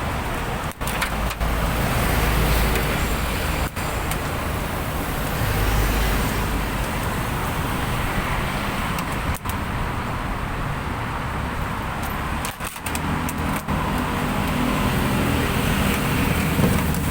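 Road traffic noise: a steady hiss of passing vehicles, with low rumbling swells as vehicles go by and a steadier low engine hum building about three-quarters of the way through.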